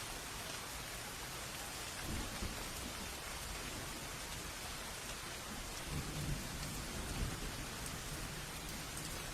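Steady rain falling, with distant thunder rumbling low twice: briefly about two seconds in, then a longer roll from about six to seven and a half seconds.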